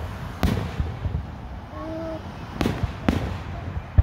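Aerial firework shells bursting overhead: a sharp bang about half a second in and two more close together near the end, over a continuous low rumble of other bursts.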